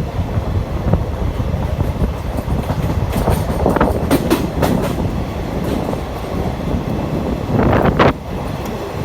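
Train running on rails: a steady low rumble, with a run of sharp wheel clicks over the rail joints about a third of the way in. A louder rush near the end cuts off suddenly.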